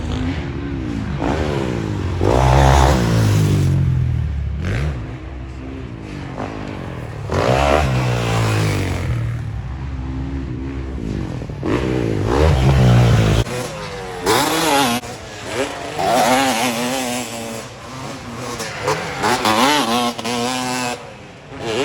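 Motocross dirt bike engines revving hard and easing off again and again, the pitch climbing and falling with each throttle change. The deep low rumble drops away about two-thirds of the way through, leaving a thinner, higher engine sound.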